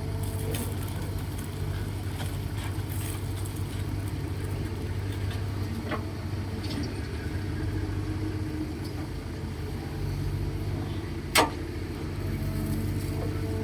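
Heavy diesel machinery, excavator and dump truck engines, running steadily, with a single sharp knock about eleven seconds in.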